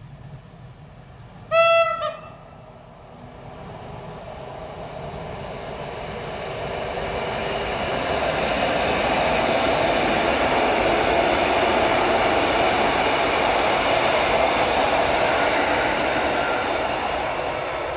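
A Koleje Mazowieckie electric multiple unit gives a short blast on its horn about one and a half seconds in. The passing train's wheels and running gear then rumble on the rails, building up, loudest through the middle and easing off near the end.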